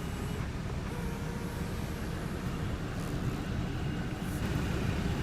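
BMW 535i's 3.0-litre twin-turbo inline-six engine idling steadily, a low even rumble.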